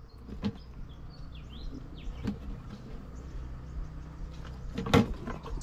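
Outdoor ambience: a few short, high bird chirps over a steady low hum, with scattered knocks, the loudest about five seconds in.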